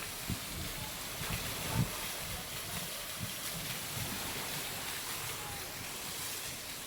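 Steady wash of sea surf with wind buffeting the microphone, and a few low thumps near the start and just under two seconds in.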